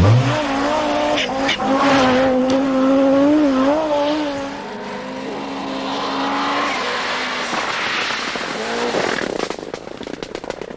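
Rally car engine running at high revs, its pitch wavering with the throttle for the first few seconds, then holding steadier and fading away. A burst of sharp crackling comes near the end.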